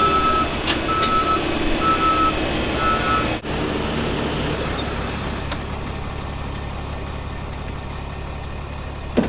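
Vehicle backup alarm beeping about once a second over a running engine, stopping about three seconds in; after that the engine runs on steadily, with a couple of knocks near the end.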